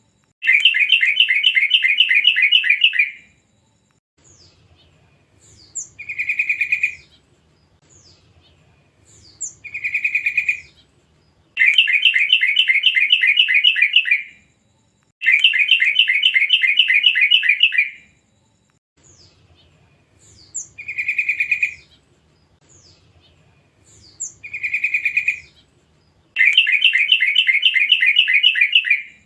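Young wild yellow-vented bulbul (trucukan) calling: runs of rapid chattering notes lasting about three seconds, alternating with shorter single calls and faint high chirps. The same sequence comes round again about halfway through, as in a looped lure recording.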